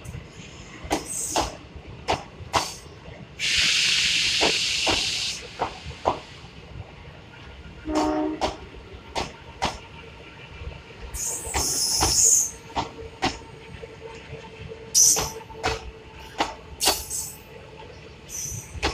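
Blue Indian Railways passenger coaches of the Lucknow–Chhapra Express rolling past, their wheels knocking irregularly over the rail joints. A loud hiss lasts about two seconds starting about three and a half seconds in, and shorter hissy bursts come again around eleven and twelve seconds in.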